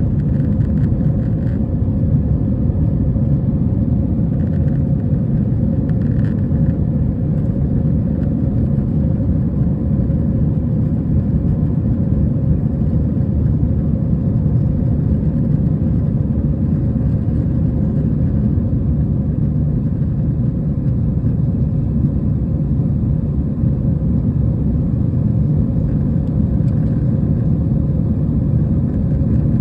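Steady low roar of engine and airflow noise inside an Airbus A320's passenger cabin in flight.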